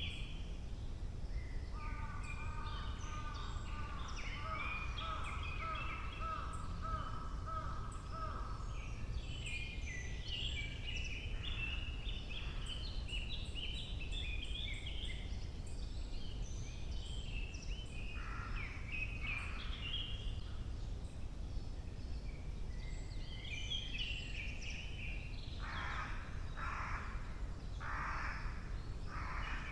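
Morning songbird chorus in a broadleaf forest, several birds singing over one another, with a crow cawing a few times about two-thirds of the way through and again near the end. A steady low rumble runs underneath.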